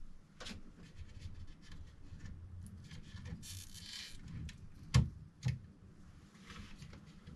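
Packaging being handled during an unboxing: soft rubbing and small clicks, a brief scraping hiss about three and a half seconds in, then two knocks about half a second apart.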